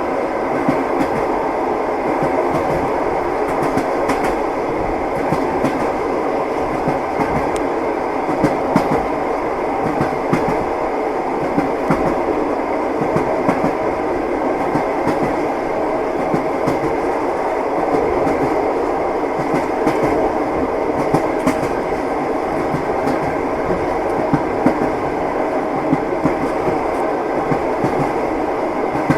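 Train running on rails: a steady rumble of the moving cars with wheels knocking on the rail joints, scattered knocks throughout.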